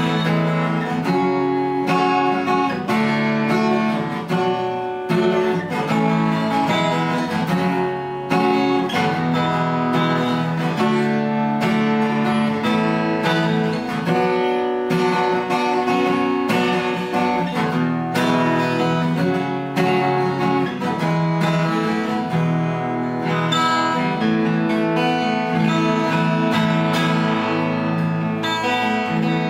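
Ruison RD-45N 41-inch acoustic guitar, with a spruce top and rosewood back and sides, strummed and picked through a chord progression, the chords changing every second or two.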